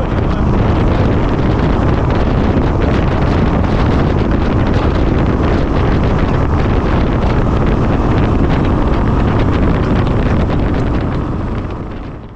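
Loud, steady wind buffeting on the microphone, fading out near the end.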